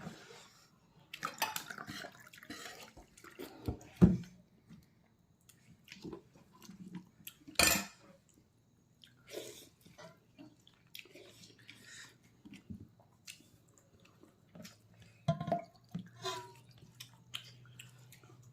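Close-up eating sounds of pork leg being chewed: irregular wet chewing and mouth noises with scattered sharp clicks, the loudest about four seconds in and again near eight seconds.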